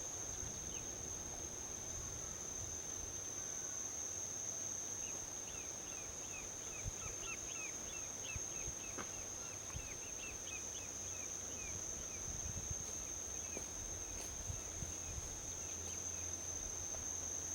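Insects keep up a steady high-pitched drone. A bird gives a quick run of short, falling chirps through the middle stretch. Underneath is the low, steady rumble of distant highway traffic.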